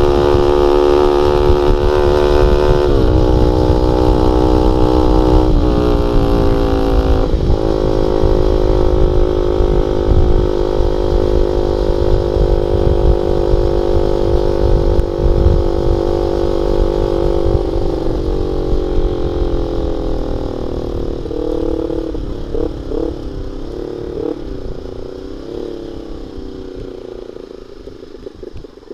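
Honda Sonic 150R's single-cylinder engine running through an aftermarket CLD X Monster muffler with a half baffle. It pulls through three quick gear changes in the first seven seconds, where the pitch dips and climbs again, then holds a steady note. Near the end the engine note drops, wavers and fades away.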